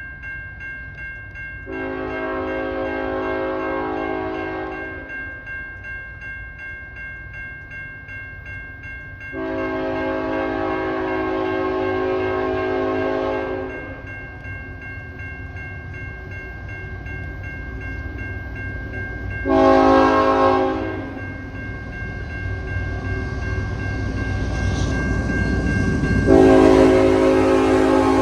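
Diesel freight locomotive's air horn sounding the grade-crossing signal: two long blasts, a short one and a final long one that is still going at the end. Under it the train's low rumble grows as it approaches.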